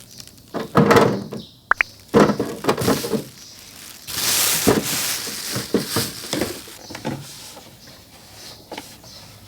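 Irregular knocks and thuds with stretches of rustling, as of objects being handled and set down, and a brief high squeak near two seconds in.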